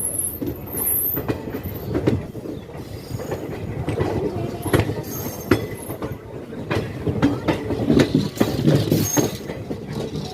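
Passenger train coaches rolling on the track: a low rumble with irregular clicks and knocks from the wheels over rail joints and points, and brief high wheel squeals.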